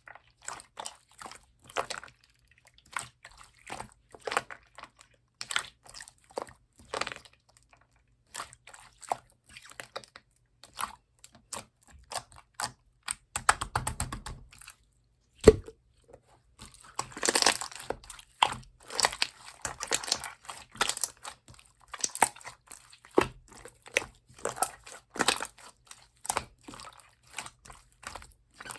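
Translucent 'pongdang' slime being squished and pressed by hand, giving many small wet pops and crackles of trapped air. A single sharp pop a little past halfway is the loudest moment, followed by a denser stretch of crackling.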